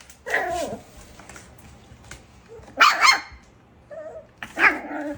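A dog barking three times: a drawn-out bark falling in pitch near the start, a sharp bark about three seconds in, and another near the end.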